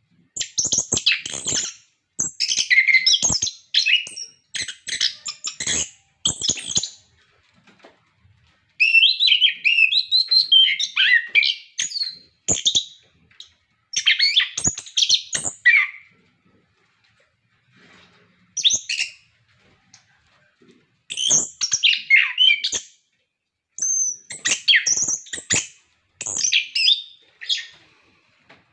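Orange-headed thrush singing loudly in runs of rapid, varied whistled and chattering phrases, broken by short pauses of a second or two.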